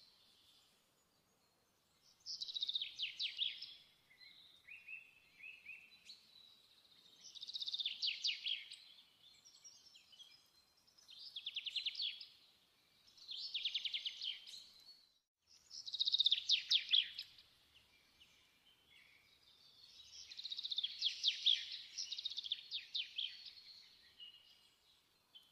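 A bird singing: short phrases of rapid trilled notes, each about a second long, repeating every two to four seconds.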